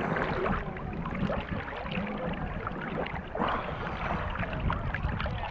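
Water splashing and sloshing around a boat, a dense run of small irregular splashes.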